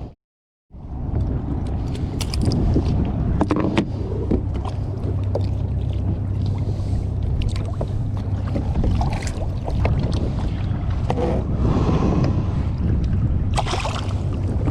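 Strong wind buffeting the microphone on a fishing kayak at sea, a dense low rumble, with water splashing and scattered small clicks and knocks.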